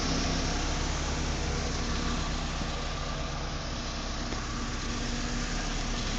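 Honda Integra GSR 1.8-litre DOHC VTEC four-cylinder engine, swapped into a Civic hatch, idling steadily with the hood open.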